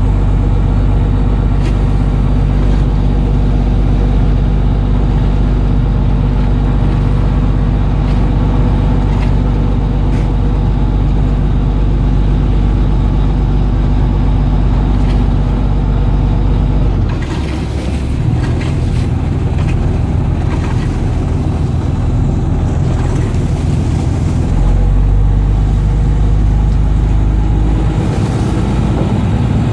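A boat's engine running steadily, its note shifting for several seconds a little over halfway through before settling back.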